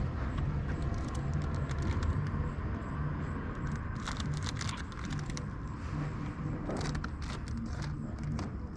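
A steady low rumble with scattered small clicks and rattles, like objects being handled and knocked together.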